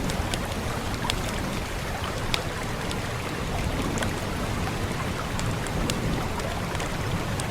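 Steady rain with a crackling wood fire: sharp pops land every second or so over the even hiss of the rain, with a low steady rumble underneath.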